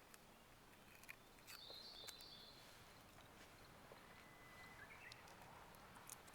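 Near silence: faint outdoor ambience with a few small, scattered clicks and a brief faint high chirp.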